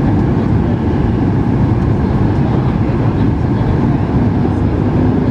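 Cabin noise inside a Boeing 737-8 MAX airliner on its approach: a loud, steady low rumble of airflow and engines. A faint steady hum joins in near the end.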